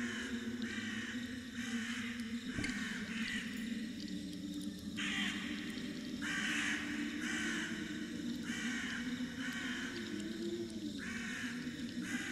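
A bird calling again and again in short calls about half a second each, in runs of two or three with brief pauses between, over a steady low hum.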